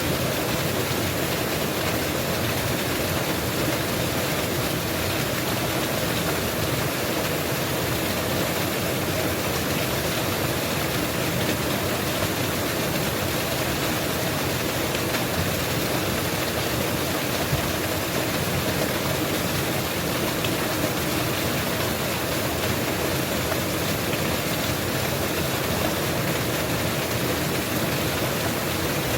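Mountain waterfall pouring steadily: an unbroken rush of falling water at a constant level.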